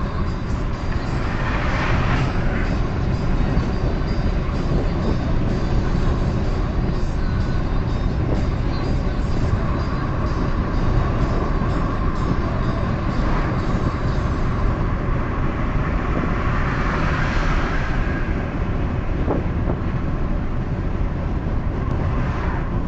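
Steady road and engine noise of a car driving at highway speed, heard from inside the cabin. The noise swells briefly a few times.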